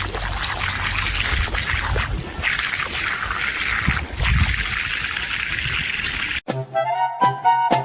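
Steady rushing and splashing of running water. It cuts off suddenly near the end and gives way to music with drums.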